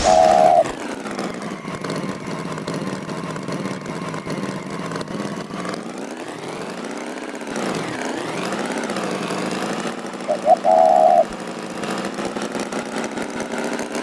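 Cartoon tractor engine running steadily, its pitch rising and falling for a few seconds midway. Two short loud high notes, like toots, sound at the start and about ten and a half seconds in.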